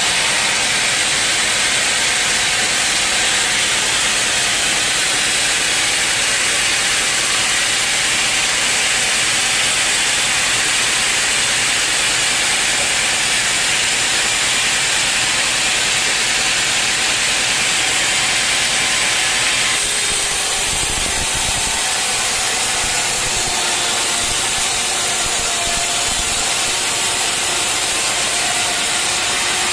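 Sawmill saw cutting through a dense teak log, a steady loud hissing rasp of the blade in the wood. About two-thirds of the way through the sound shifts, and a few low thuds follow.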